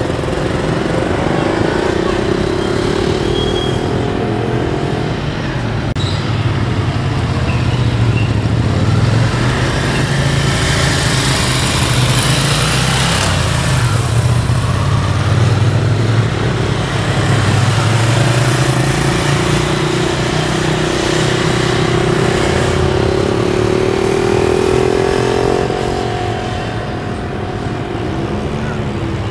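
Motorcycle engine running at low speed, its pitch rising and falling as the throttle is opened and closed.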